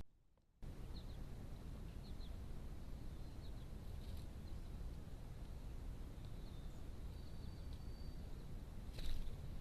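Outdoor ambience through a trail camera's microphone: a steady low rumble with faint, short, high-pitched bird chirps scattered through it and a single sharp tap near the end.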